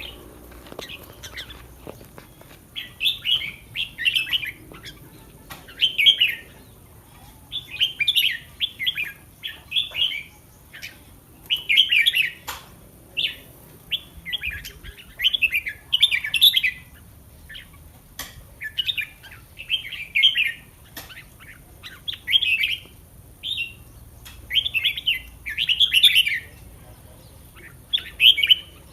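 Caged red-whiskered bulbul singing: short, bright warbled phrases repeated about every one to two seconds.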